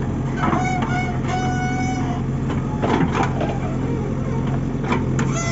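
Heavy diesel engine of construction machinery running steadily, with a few sharp clanks about half a second in, near the middle and near the end.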